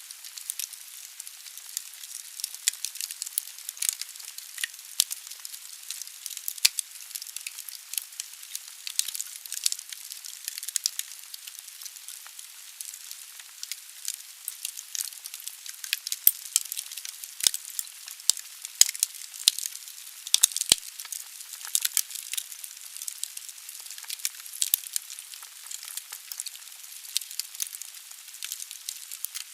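Wood fire burning in a fireplace: a steady hiss of the flames with frequent sharp, irregular crackles and pops from the burning logs.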